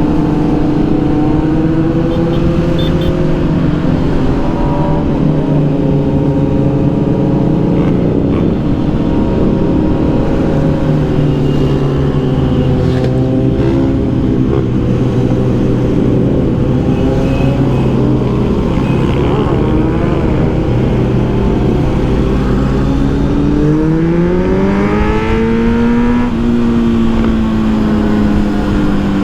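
Kawasaki Z900's inline-four engine running at steady revs while riding. About 24 seconds in it revs up, rising in pitch, and then holds a higher note.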